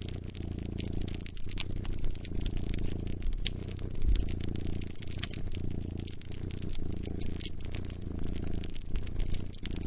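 Wood fire crackling, with frequent sharp pops and snaps scattered irregularly, over a cat's low, steady purring that swells and eases about once a second.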